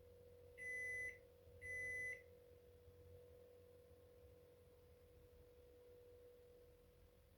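Washing machine's electronic beeper sounding two short, steady high beeps, each about half a second long and a second apart, over a faint steady hum.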